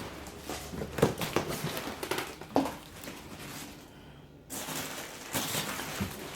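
Foam packing and wrapping being pulled about and rummaged out of a cardboard box: irregular crinkling and rustling with small knocks, pausing briefly about four seconds in.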